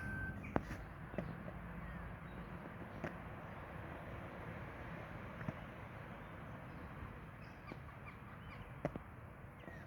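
Birds calling, with a few short crow-like caws, over a steady outdoor background hum.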